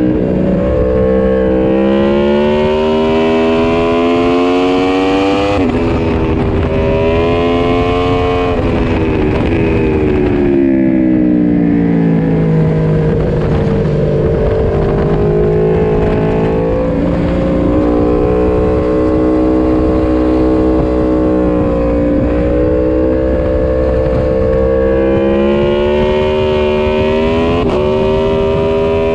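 Yamaha MT-10 SP's crossplane inline-four under hard acceleration and braking on track. The engine note climbs and drops sharply at a gear change, falls slowly under braking in the middle, then climbs again with further shifts. Wind rush runs under it throughout.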